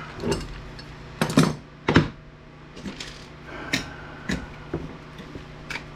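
Sharp clacks and knocks of hard plastic and metal parts as the internals of an APC battery backup unit are broken apart by hand, about half a dozen separate strikes, the loudest two about a second and a half and two seconds in.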